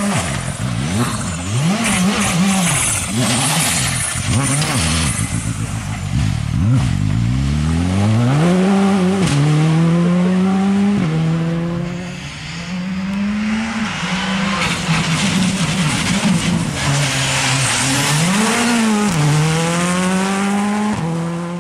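Rally car engine at full effort, its pitch swinging quickly up and down for the first several seconds, then climbing through a run of upshifts, each rise cut by a short drop.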